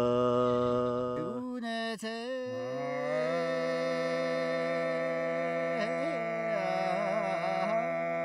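Male voices singing chor dagu, Mongolian drone polyphony: one voice holds a steady low drone while another sings a melody above it. The drone breaks off about a second and a half in and comes back on a higher note.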